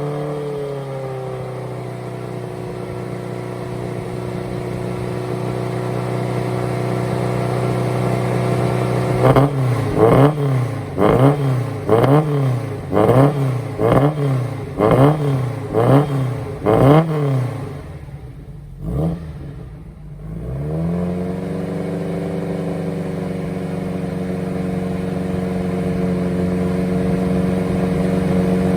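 Old Datsun Fairlady's engine running. It settles to a steady idle, then the throttle is blipped about once a second, eight times in a row. The engine falters and nearly dies, then picks up again and holds a steady, slightly faster idle.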